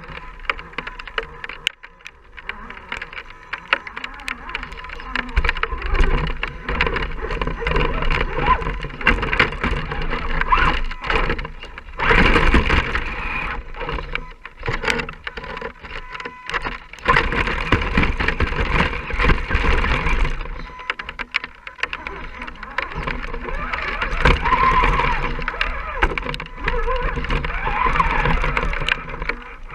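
Electric motor and gearbox of an Axial SCX10 scale RC crawler truck whining as it drives, easing off and picking up again several times, with many short clicks and knocks.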